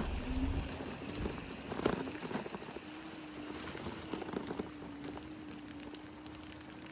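Segway electric scooter riding along: a steady motor whine that wavers at first and then holds level, over rolling tyre noise, with a few knocks and rattles about two seconds in.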